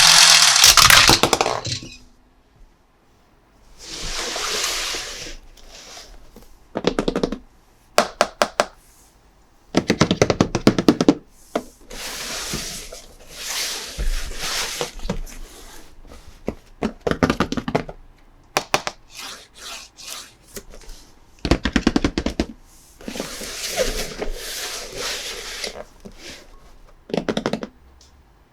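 Plastic toy pieces and packaging being handled in short bursts: rustling, with runs of clicks, knocks and scrapes.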